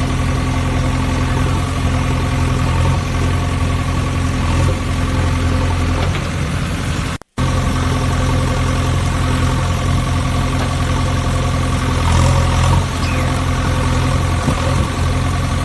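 Engine idling steadily at an even pitch. It cuts out abruptly for a split second about halfway through, then carries on unchanged.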